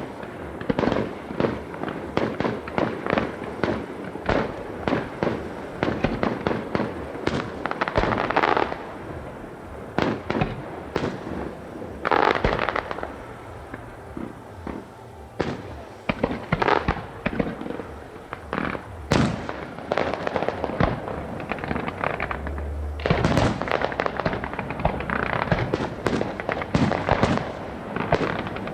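Fireworks display: a rapid, continuous run of bangs and crackling shell bursts, with louder salvos about eight and twelve seconds in and a dense barrage over the last few seconds.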